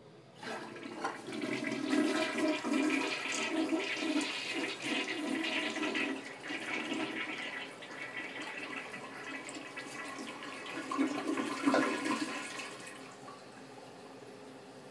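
A toilet flushing: water rushes loudly for about twelve seconds, then drops to a quieter steady hiss near the end.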